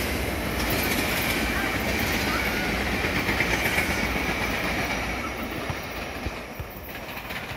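SEPTA Regional Rail commuter train passing at close range: a steady rumble and clatter of wheels on rail with a high whine, growing quieter near the end as the train moves away.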